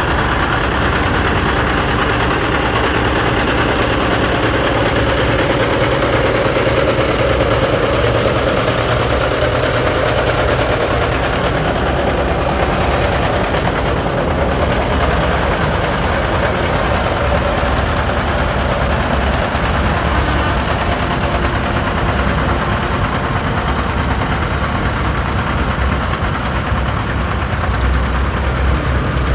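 Tractor engines running steadily, a loud low drone with no break.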